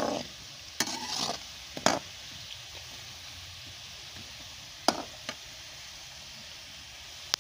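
Cubed potatoes sizzling steadily as they brown in hot oil in a metal wok, with a metal slotted spoon scraping and knocking against the pan several times as they are stirred.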